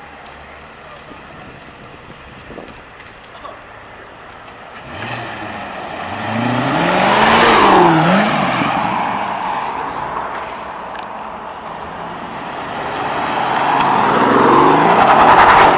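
Cars driving past one after another. A quiet stretch is followed by an engine revving up, its pitch dipping and rising again as it passes about seven seconds in, and another car passes loudly near the end.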